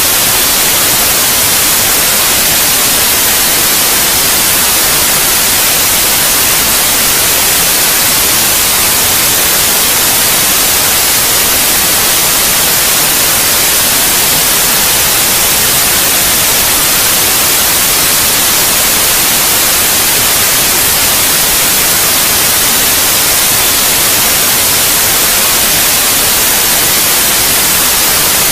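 Steady white noise: an even, unbroken hiss, brightest in the highs, that does not change.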